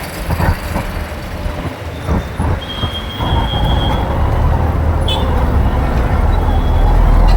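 Riding noise from a moving motorbike: heavy wind rumble on the microphone mixed with road and traffic noise, growing louder toward the end. A brief high, steady tone sounds for about a second, about three seconds in.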